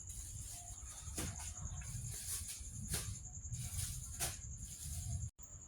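Crickets trilling steadily in the background, with a low hum and a few faint clicks.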